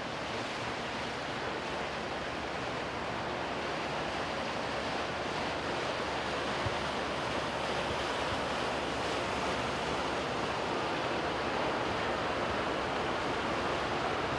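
Steady rushing noise of wind and water from a boat underway, slowly getting louder.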